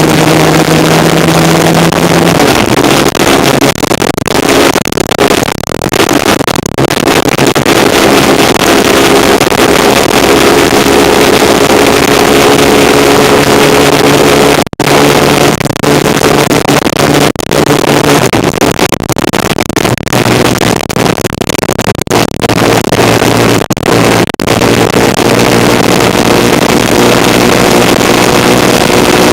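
A 1975 Kawasaki KZ400 parallel-twin motorcycle engine running under way, its note shifting a few times, under heavy wind and road noise on the bike-mounted microphone.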